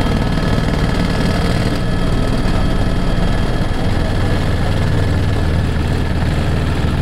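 Helicopter engine and rotor running steadily, with a fast low beat from the blades and a steady whine above it.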